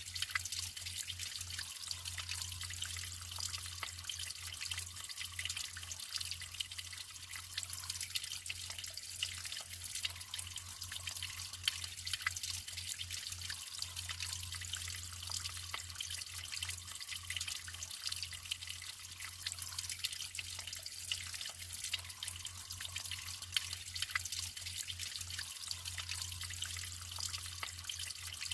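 Natural running water trickling and splashing steadily, full of small drips and splashes, with a faint low hum underneath.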